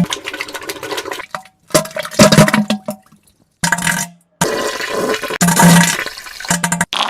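A string of wet, sputtering diarrhea and fart sound effects with splattering, cut together so that each one stops abruptly in dead silence before the next begins; there are about four of them.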